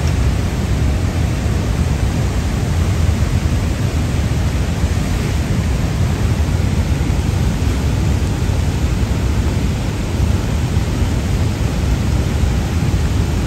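Steady, loud rushing of floodwater, an unbroken roar heaviest in the low end.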